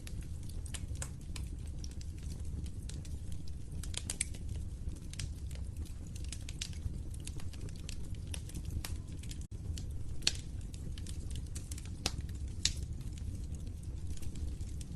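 Wood fire in a fireplace crackling: a steady low rumble of burning with frequent sharp pops and snaps, a few louder pops in the second half.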